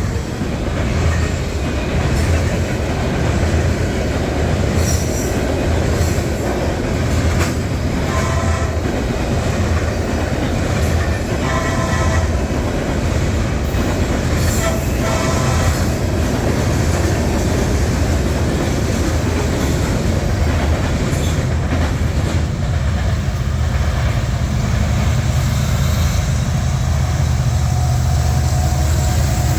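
Freight train rolling past with a steady rumble of wheels on the rails, and several short high-pitched wheel squeals in the first half.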